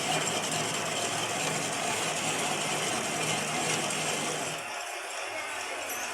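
Rapid, steady mechanical clicking and rattling from a workshop tool working on tractor axle parts, stopping about four and a half seconds in.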